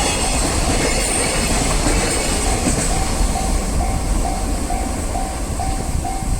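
A train running past over a level crossing, loud and rumbling throughout. From about two and a half seconds in, the crossing's warning bell can be heard through it, a single tone ringing about twice a second.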